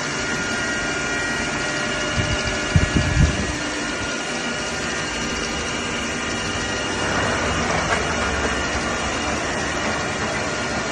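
Arno-Nomo universal milling machine running, a steady mechanical hum with several high gear-whine tones. There are a few low thumps about two to three seconds in, and the noise swells briefly around seven to eight seconds.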